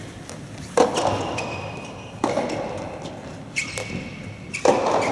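Soft tennis rally: the rubber ball struck by rackets with sharp hits about every one and a half seconds, four in all, each ringing on in a large echoing hall, with short high squeaks between the hits.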